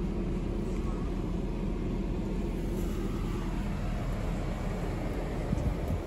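BMW 740i E38's 4.4-litre V8 idling steadily as it warms up.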